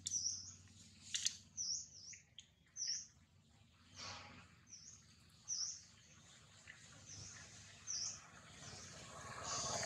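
A small bird chirping over and over: short, high notes that dip and rise again, roughly once a second.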